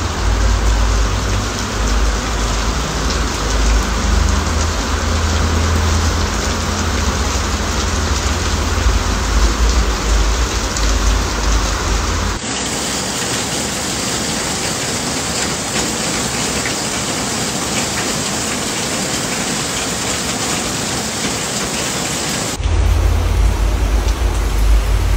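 Heavy rain pouring onto paved ground and a fabric awning, a dense steady hiss. A deep low rumble lies under it for the first half and again near the end, and the sound changes abruptly twice.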